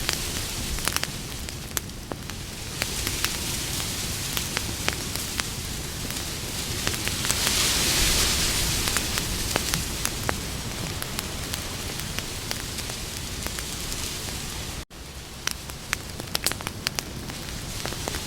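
Campfire crackling: many short sharp pops and snaps over a steady hiss of burning wood. The hiss swells louder about 8 seconds in. The sound cuts out for an instant about 15 seconds in.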